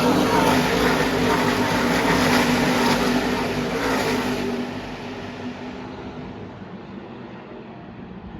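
NASCAR Truck Series race trucks' V8 engines running at speed on the track. The loud engine noise fades away from about halfway through as the trucks move off.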